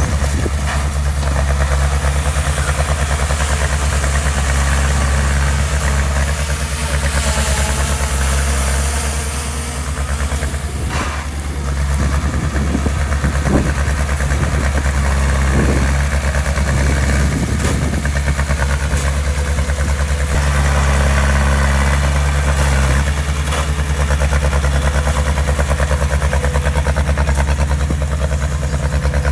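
Heavy construction machine's diesel engine running steadily, with a few brief knocks or clatters between about eleven and eighteen seconds in.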